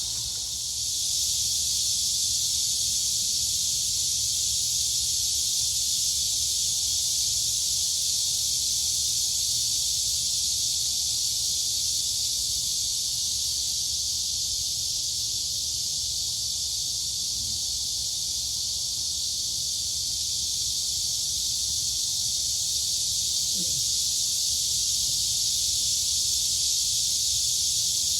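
Dense chorus of crickets and cicadas: a continuous high-pitched buzzing drone that gets a little louder about a second in.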